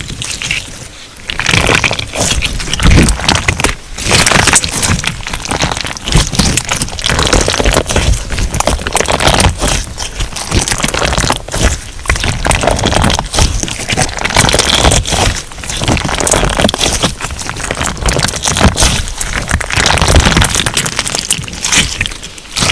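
Hands kneading and pressing a crunchy slime, giving a dense, continuous run of crackling and popping, briefly quieter about a second in.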